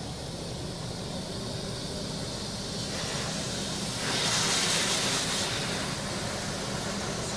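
Automatic car wash running over a car, heard from inside the car: a steady low machine hum, with a hiss of water spray on the car that builds about three seconds in and is loudest for a second or so after that.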